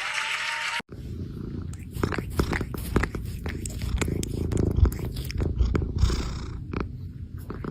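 A cat purring, a steady low rumble, broken by frequent short clicks and knocks; it starts about a second in, after an abrupt cut from a stretch of hiss.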